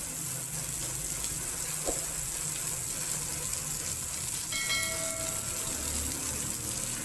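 Water spraying from a homemade car washer pumped by an old refrigerator compressor: a steady hiss over a low hum, with a brief high tone about two-thirds of the way in.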